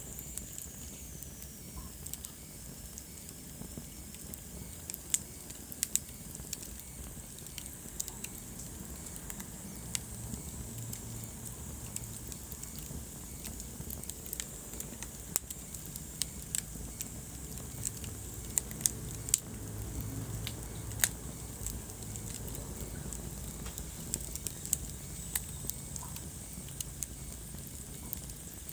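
Wood fire burning in a fireplace: a steady low rumble and hiss of the flames with frequent sharp, irregular crackles and pops from the burning logs.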